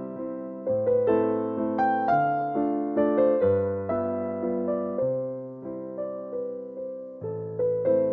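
Meditation music played on piano: a slow melody of single notes, one struck about every half second and left to ring and fade, over low held bass notes.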